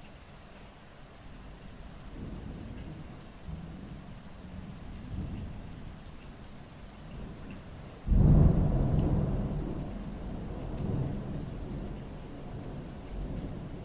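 Rain falling steadily during a thunderstorm, with a low rumble of thunder building from about two seconds in, then a sudden loud thunderclap a little past halfway that rolls off slowly.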